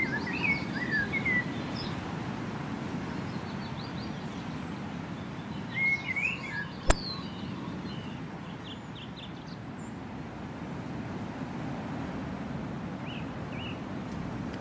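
Small birds chirping in short, quick phrases, about a second in, again around six seconds and faintly near the end, over a steady low background noise. A single sharp click stands out near seven seconds.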